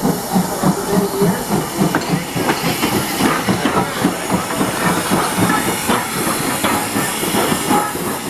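Steam train running: a fast, even rhythmic beat over a steady hiss of steam.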